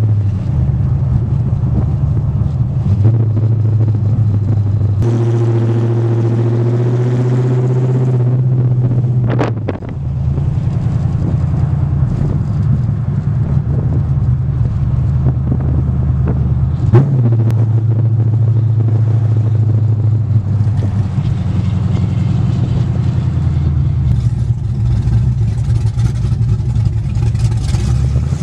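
5.7-litre V8 car engine running on the move, a loud, steady low exhaust drone that shifts in pitch a few times. The exhaust is damaged and exits under the middle of the car instead of at the back, so it runs loud and unmuffled.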